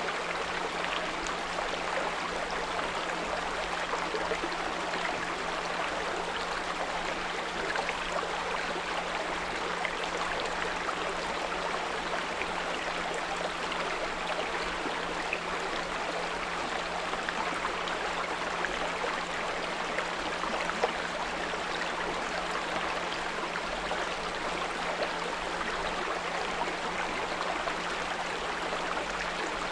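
A small brook running steadily, with a constant low pure tone at 174 Hz held underneath it.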